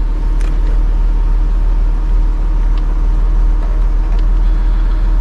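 A car engine idling steadily: a constant deep rumble with a steady hum over it.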